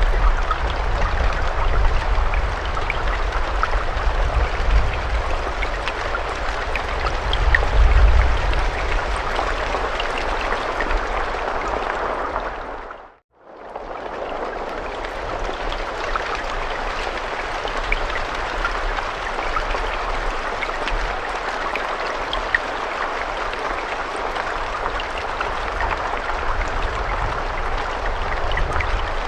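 Steady rain with a dense patter of drops and a low rumble underneath in the first part. About 13 seconds in it fades out to silence and quickly fades back in.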